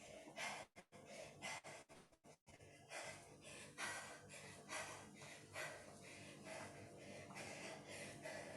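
A woman breathing hard in short, regular puffs, roughly one a second, while doing mountain climbers, winded near the end of a one-minute cardio blast. The breathing is faint.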